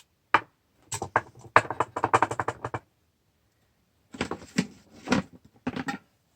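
Cooking utensils and food clattering against a pan: two runs of quick clicks and taps, one starting about a second in and another about four seconds in.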